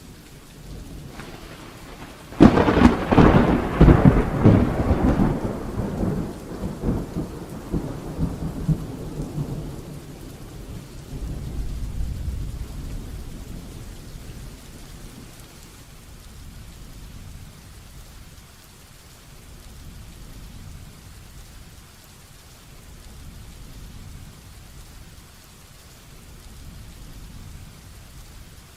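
Heavy rain falling steadily, with a sharp thunderclap a few seconds in that rolls and rumbles away over the next several seconds, a further low rumble around the middle, then rain alone.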